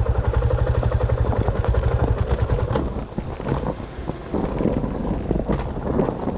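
Dirt bike engine running with an even, rapid pulse. About three seconds in it turns uneven and choppy, mixed with clattering knocks.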